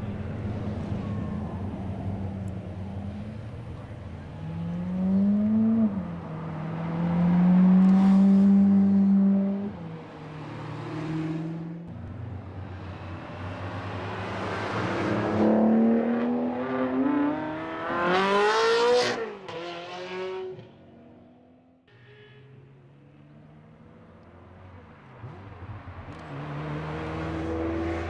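Supercar engines revving and accelerating past one after another, each engine note rising in pitch as the car pulls away. Several loud passes come through the middle, and a quieter lull follows about three-quarters of the way through.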